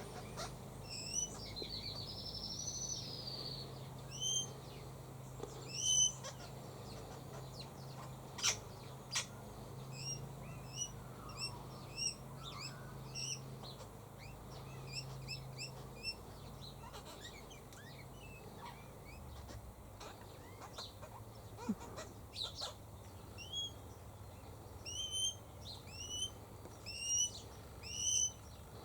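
Birds calling in the trees: many short, rising chirps repeated throughout, with a brief warbling call a couple of seconds in and a few sharp clicks. A low steady drone of distant lawn mowing sits underneath for the first half, then fades out.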